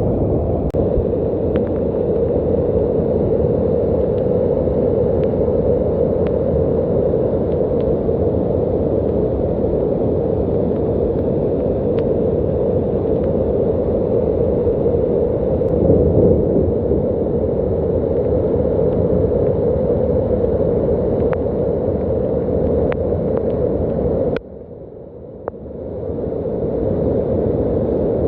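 Rain and running rainwater: a steady, dense rush with scattered sharp ticks. It drops off abruptly about 24 seconds in and swells back within two seconds.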